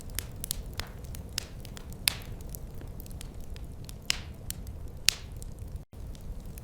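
Wood fire crackling, with scattered sharp pops over a steady low rumble; the two loudest pops come about two and five seconds in. The sound cuts out for an instant near the end.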